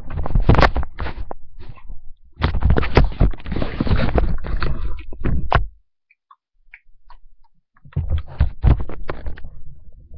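Close, rough rustling and knocking in three stretches of a second or more, with short clicks among it and quiet gaps between.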